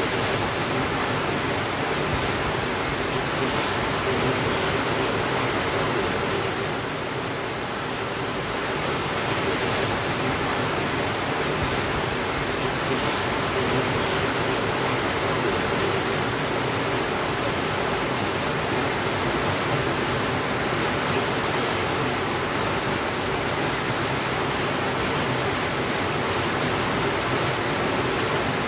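Steady rainfall, an even hiss, easing slightly for a moment about seven seconds in.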